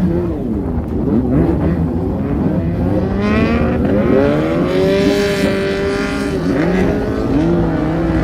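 Car engines revving over a steady low rumble, their pitch rising and falling again and again, with one longer, louder rev through the middle.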